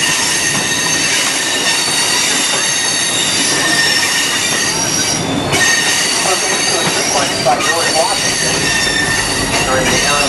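Passenger train's steel wheels squealing against the rails while the train runs: a steady high-pitched squeal of several held tones over the continuous rumble of the moving train.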